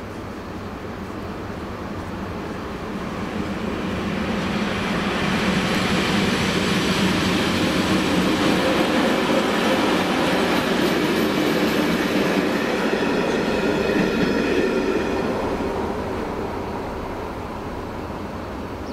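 Class 754 diesel locomotive hauling a single coach passing at a level crossing: engine and wheels on the rails grow louder, run loudest for about ten seconds, then fade away.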